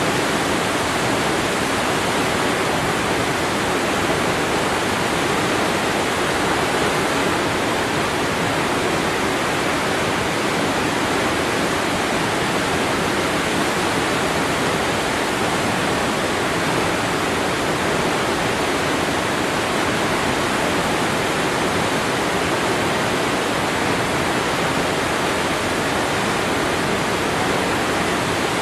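Waterfall: a steady rush of falling water, even and unbroken, with no changes or separate splashes.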